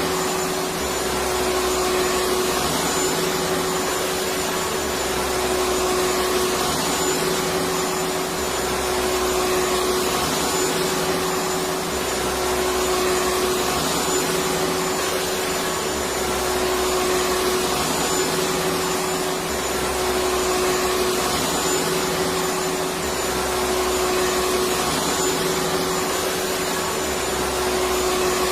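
Electric vacuum cleaner running steadily: a constant rushing hiss of air with a steady motor hum. The low rumble under it swells and fades back every few seconds.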